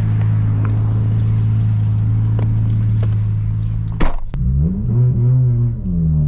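BMW G80 M3's twin-turbo inline-six with a single midpipe, heard from inside the cabin. It holds a steady pitch for about four seconds, then there is a sharp crack, and then the revs rise and fall once.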